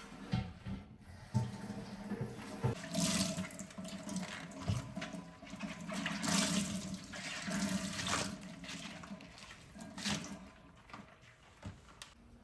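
Water running from a tap into a sink, its flow rising and falling, with a few short knocks. It fades out near the end.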